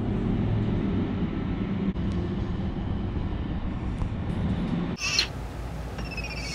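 Car engine idling with a steady low hum, which cuts off abruptly about five seconds in, followed by a short rush of noise.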